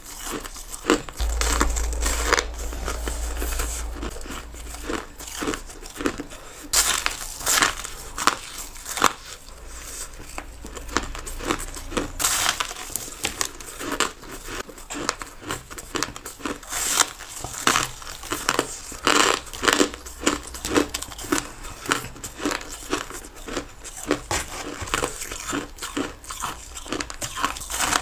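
Crushed ice being bitten and crunched between the teeth close to the microphone: a long, irregular run of sharp crunches, with a few louder bites among them.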